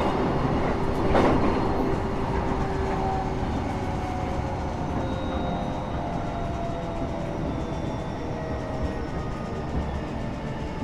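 Inside a moving train: a steady running rumble from the wheels on the rails, with a sharp knock about a second in. A thin motor whine slowly falls in pitch and the overall level eases off as the train slows.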